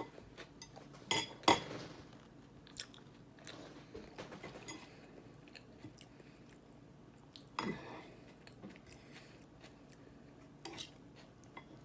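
Close-up chewing and crunching of a mouthful of salad, with a few sharp clicks of a utensil against a dish, the loudest about a second and a half in.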